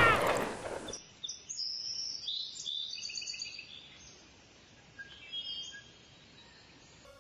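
A loud sound dies away in the first second, then birds chirp in short high phrases for about three seconds, with a few fainter chirps about five seconds in.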